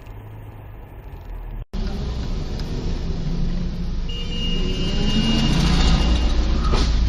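Car engine and road noise heard from inside a moving car. The sound cuts out for an instant about a second and a half in and comes back louder, growing through the rest. A thin high whine runs for a couple of seconds, and there is a short rushing swish near the end.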